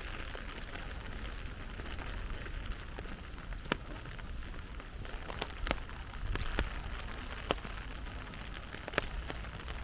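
Heavy rain falling steadily as an even hiss, with a handful of sharp, separate ticks of nearby drops landing through it.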